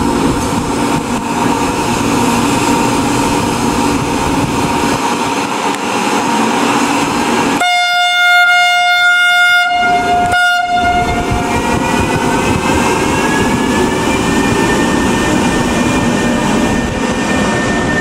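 Electric locomotive hauling a passenger train past the platform, with steady running and rail noise. About eight seconds in it sounds one horn blast lasting about three seconds, then a faint rising whine follows as the train gathers speed.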